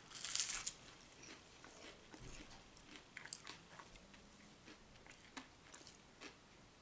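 A person biting into a fried herring fillet and chewing it. A louder crunchy bite comes right at the start, then faint scattered crunches of chewing.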